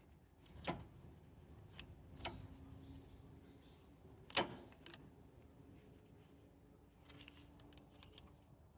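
Scattered clicks and knocks of small hard objects being handled, with three sharper knocks about one, two and four seconds in.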